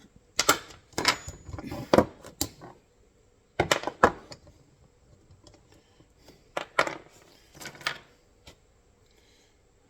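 Steel trap parts and chain clinking and clanking as the D-ring and chain are fitted onto a foothold trap: sharp separate metal knocks in clusters, going quiet for the last couple of seconds.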